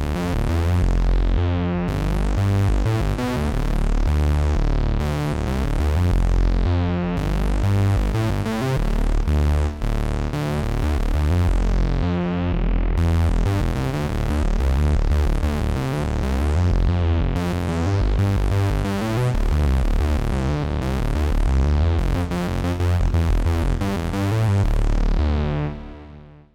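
Moog Messenger analog monophonic synthesizer playing a bass-heavy patch with quickly changing notes and recurring bright swells in the tone, fading out near the end.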